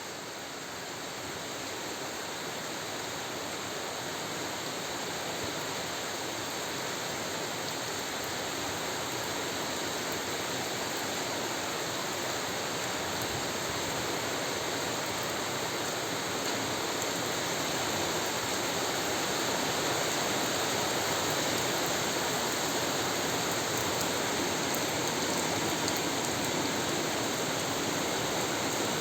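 Steady rain falling, a continuous hiss that grows slowly louder over the first twenty seconds or so and then holds.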